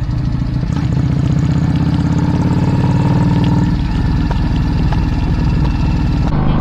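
A vehicle's engine running on the move, a steady low pulsing that grows stronger in the first few seconds and eases off about four seconds in.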